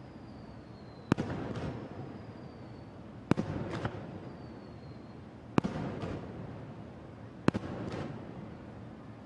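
Aerial fireworks shells bursting: four loud bangs about two seconds apart, each followed by a second crack and a rolling echo. A faint falling whistle runs between the first bangs.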